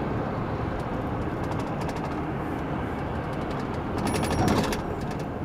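Steady road and engine noise heard inside a moving car's cabin, with a brief louder patch of clicks or rattles about four seconds in.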